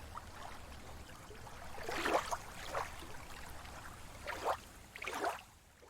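Sea waves washing in over a steady low rumble of surf: one swell about two seconds in and two more near the end, each rising and falling away.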